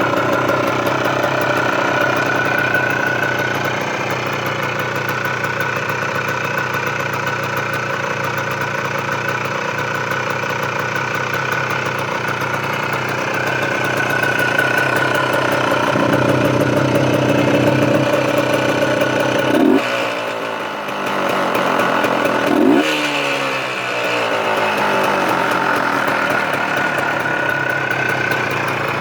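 OSSA 250 MAR trials motorcycle's single-cylinder two-stroke engine idling steadily, blipped twice with the throttle about two-thirds of the way through, the revs falling back to idle after each blip.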